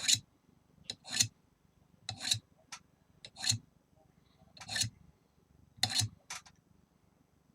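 Diamond file being drawn by hand in short scraping strokes, about one stroke a second, six strokes in all.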